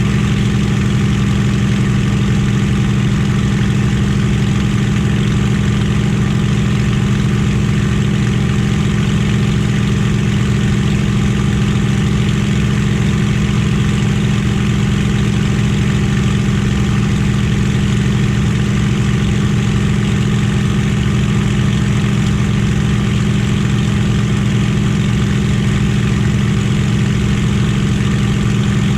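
Merlin V12 aero engine running at a steady cruise setting, a constant loud drone with no change in pitch or level, as heard from inside a warbird's cockpit.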